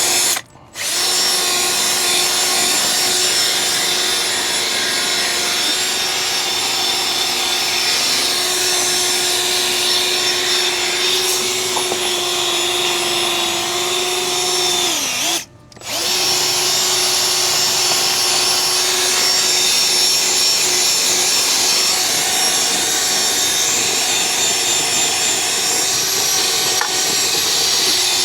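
Electric drill spinning a polishing attachment on a truck wheel, running at a steady speed. It stops briefly about half a second in, and again around fifteen seconds in with its pitch sagging just before, then starts up again each time.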